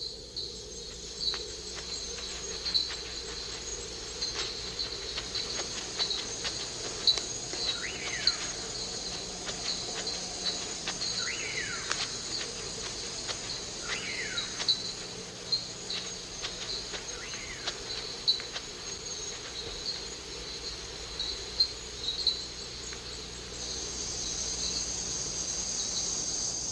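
Chorus of rainforest insects at night: a steady high-pitched trilling with regular chirps. It grows louder near the end. A few short falling calls from another animal come through, about a quarter of the way in and then three more times.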